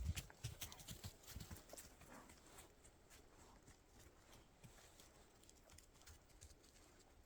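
Footsteps crunching in snow: a quick run of steps in the first two seconds, then fainter, scattered ones.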